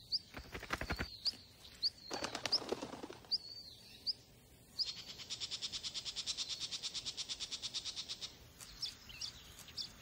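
Small birds calling: short high chirps about twice a second, with a few clicks near the start. After about five seconds comes a rapid, even rattle of about a dozen pulses a second that lasts three to four seconds.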